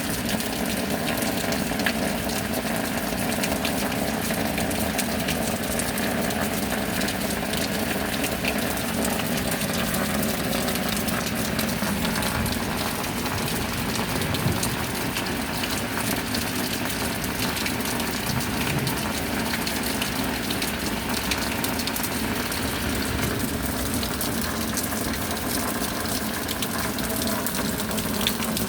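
Steady rain falling, a continuous even rush of water, with a faint steady hum underneath.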